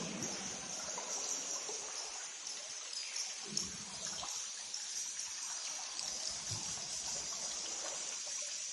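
Water trickling and splashing in a cave, under a steady high chatter of bats.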